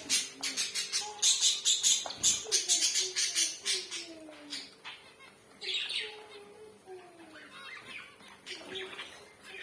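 Zebra finches calling: a dense run of short, rapid notes over the first four seconds or so, then sparser, scattered short calls.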